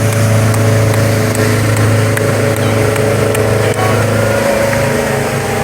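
Motorboat engines running steadily with a low, even hum.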